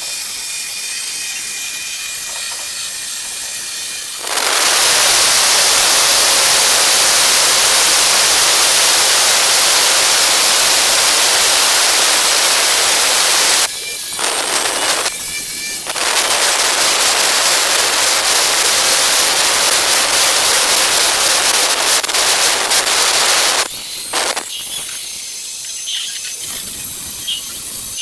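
Angle grinder with a cutting disc cutting through ceramic tile: a loud, steady grinding hiss for about nine seconds, a short stop with a brief burst, then another cut of about eight seconds. Quieter stretches before and after, where the disc is not in the tile.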